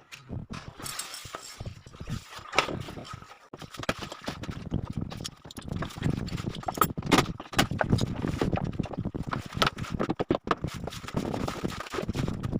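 Irregular knocks, taps and clatter of wooden boards and hand tools being handled, several a second, over a low steady rumble.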